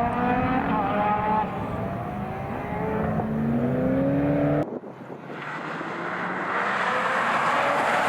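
Rally car engine accelerating hard through the gears, its pitch climbing and then dropping at each shift. About two-thirds of the way through the sound cuts off abruptly, and another engine note builds up, rising in pitch.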